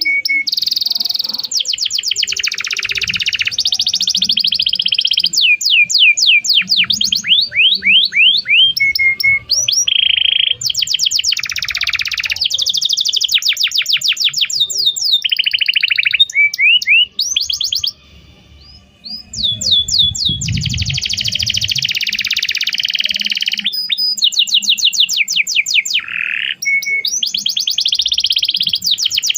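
Domestic canary singing a long, loud song of fast rolling trills and rapidly repeated sweeping whistles, with a short break a little past halfway.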